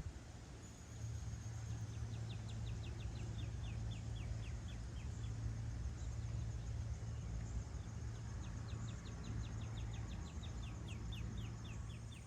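A songbird sings a fast trill of short falling notes, twice: once about two seconds in and again about eight seconds in. Underneath runs a steady low hum.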